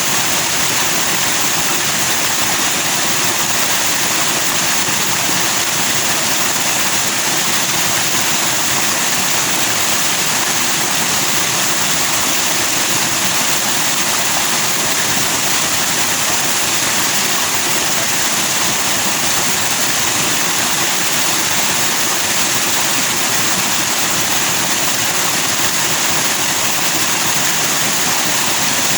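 Forest stream rushing over rocks with white foam, a loud, steady water noise that does not change.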